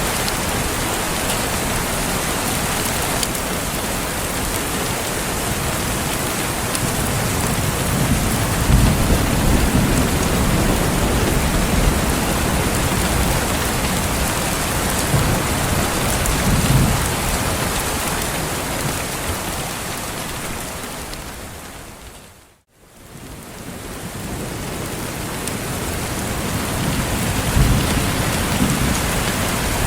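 Steady heavy rain, with low rumbles of thunder swelling a few times. About two-thirds of the way through the sound fades smoothly out to near silence and straight back in, like the seam of a looped recording.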